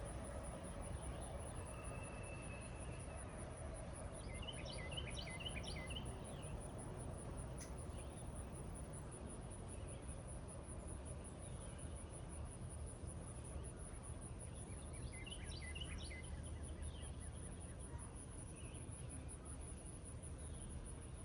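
Steady light rain falling over an open meadow, with a continuous high insect trill throughout. A songbird sings a short phrase of quick notes about four seconds in and again around fifteen seconds in.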